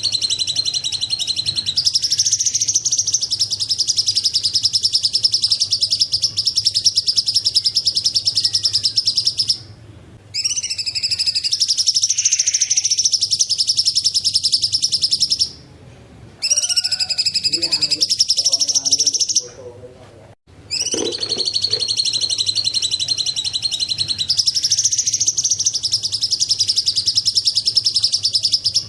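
Cucak cungkok singing a long, fast, high-pitched chattering trill, almost unbroken, stopping for three short breaks in the middle part before going on again.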